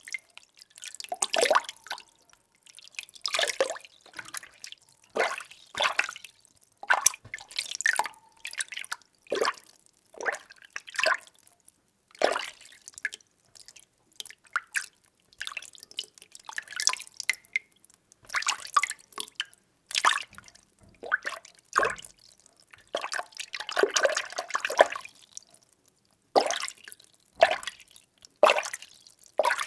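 Water being stirred by hand or with a utensil in a container: irregular small splashes and swishes, about one or two a second, with brief pauses between strokes.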